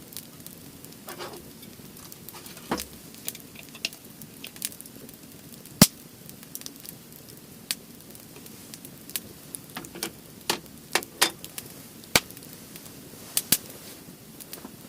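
Firewood burning in a fire pit, crackling with irregular sharp pops over a low hiss, the loudest pop about six seconds in.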